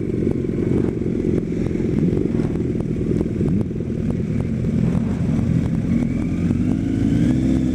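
Kawasaki ZX-10R sport bike's inline-four engine running at low speed, settling into a steadier note about six seconds in.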